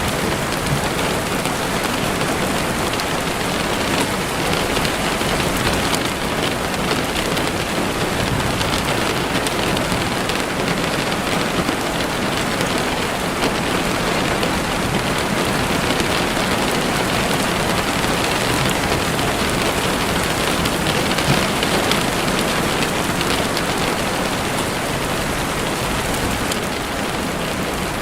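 Heavy rain falling and pattering on a window, a steady dense hiss without a break.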